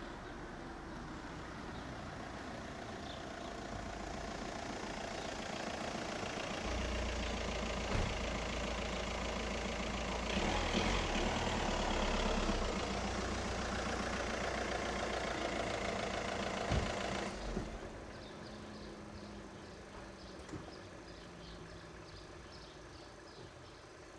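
A train passing over a level crossing. A rumble builds for several seconds, then goes heavy and low for about ten seconds with a couple of sharp knocks, and cuts off suddenly as it clears. Afterwards a faint rapid chirping is left.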